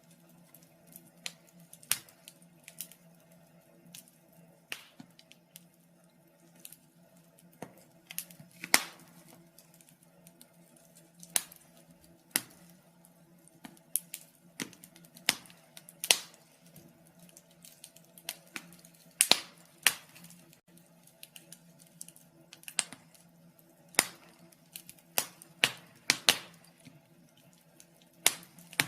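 Wood fire burning in a fireplace, crackling and popping at irregular intervals, with a few sharper pops standing out, over a faint steady hum.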